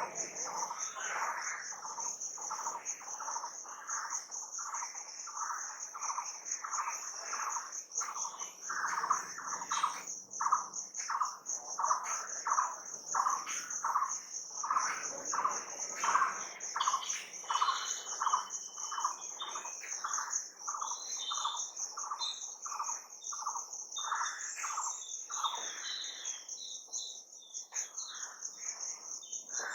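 Outdoor dawn-chorus-like soundscape: a steady high insect trill, over which a bird repeats a short call about twice a second, with other birds chirping higher in the second half.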